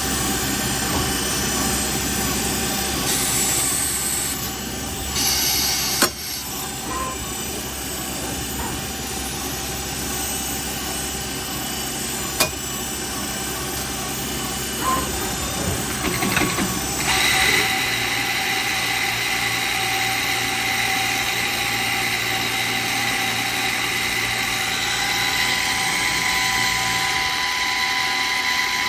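Traub TNL 26 CNC Swiss-type lathe running: a steady machine drone with whining tones and two sharp clicks. About two-thirds of the way through the low hum stops and a higher whine takes over.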